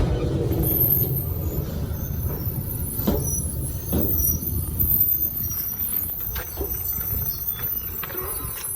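JR Shikoku 8000 series electric limited-express train rolling into the platform and slowing, a low rumble that gradually fades, with a few sharp clicks of the wheels over rail joints.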